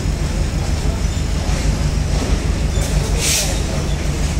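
Passenger train rolling along the track, heard from aboard the coach: a steady low rumble of wheels and carriage, with a brief hiss about three seconds in.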